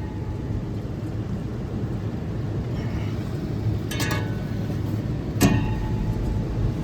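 Refrigeration fan motor running with a steady low hum and a fluttering, grinding sound from its bearings, which are worn and need the motor replaced. A sharp knock sounds about five and a half seconds in.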